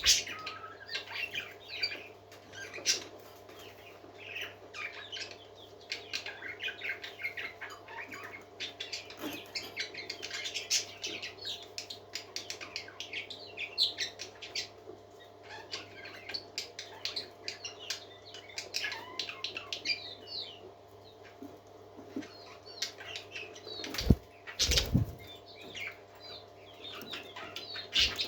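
Parakeets chirping and chattering continuously in quick, short high notes, with a couple of loud thumps about 24 seconds in.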